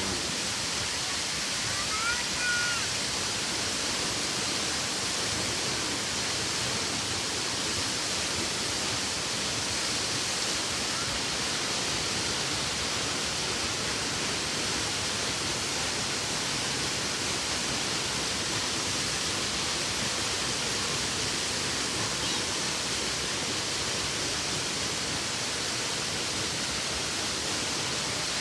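Steady rushing roar of a waterfall crashing onto rocks, even and unbroken. A brief high chirp sounds about two seconds in.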